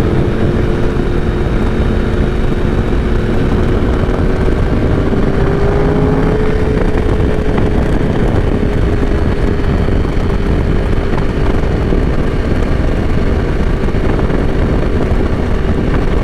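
Yamaha R1 inline-four sport bike engine running at a steady cruise, its hum rising slightly in pitch about six seconds in, under loud wind rush on the microphone.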